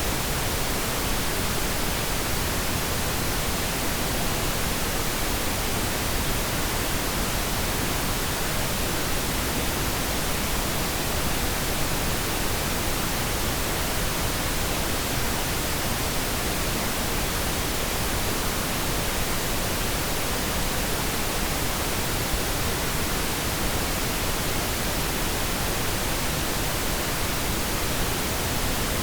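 Pink noise: a steady, even hiss spread across all pitches, generated as a masking sound for tinnitus.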